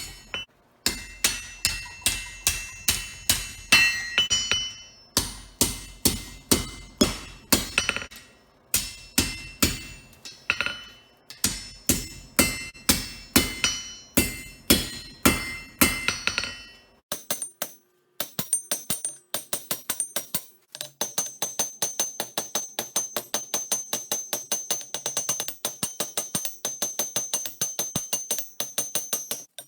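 Hammer blows on steel at an anvil, forging the spring into a blade: sharp, ringing strikes about two a second. About seventeen seconds in they give way to quicker, lighter taps.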